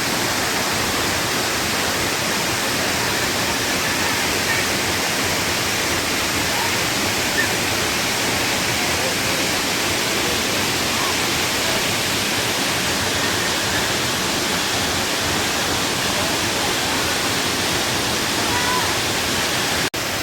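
Waterfall rushing steadily, a constant wash of falling water, cut off for an instant near the end.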